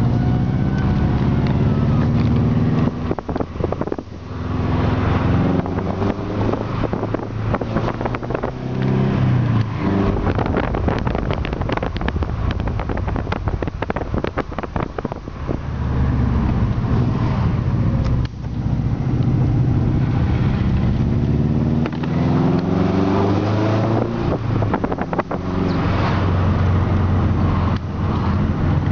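Subaru EJ20G turbocharged flat-four engine driving under load, its revs climbing and dropping several times, with a stretch of rapid ticking in the middle. A holed piston has left it with no compression and an extreme exhaust leak.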